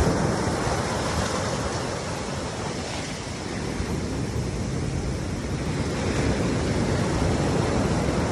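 Ocean surf washing in, a steady rushing that eases a little in the middle and builds again.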